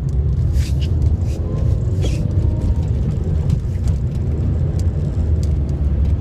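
Car cabin noise on the move: a steady low rumble of engine and road, with a few short clicks.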